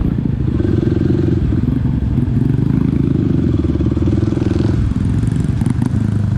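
Mini dirt bike's engine running while being ridden along a trail, with the engine note easing off about five seconds in.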